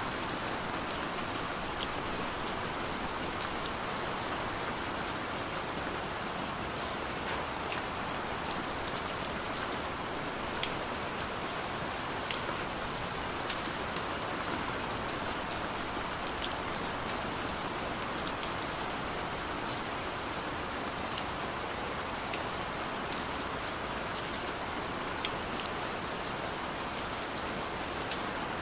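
Heavy rain falling steadily, with frequent sharp ticks of individual drops striking a surface.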